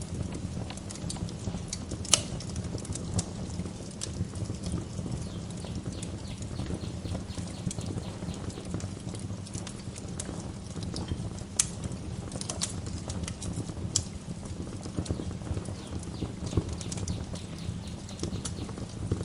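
Wood fire crackling in a fireplace: a steady low rumble of burning with irregular sharp pops and snaps, the loudest about two seconds in and again around twelve and fourteen seconds.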